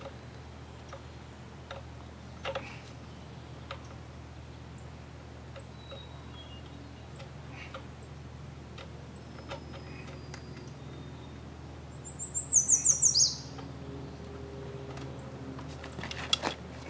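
A songbird gives one short, loud burst of about seven quick notes, stepping down in pitch, about twelve seconds in. Under it run a steady low hum and a few light clicks from hand tools on an outboard powerhead.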